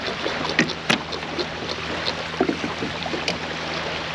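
Steady wash of water and wind around a fishing kayak, with a few sharp clicks and knocks, the loudest just under a second in.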